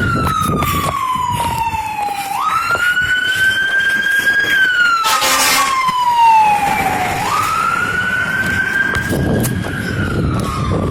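Fire engine siren wailing as the truck passes: each cycle jumps up quickly, holds, then slides slowly down, repeating about every five seconds. A short burst of noise cuts in near the middle.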